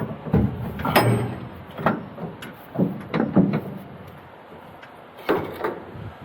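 A string of separate knocks and clunks, about eight of them, some in quick pairs, with a short quiet gap before the last two.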